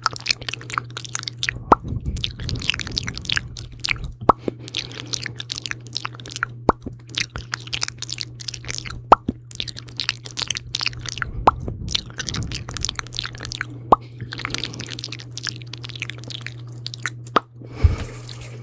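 Close-up ASMR mouth sounds into a sensitive microphone: quick wet, sticky clicks and smacks coming irregularly, over a steady low hum.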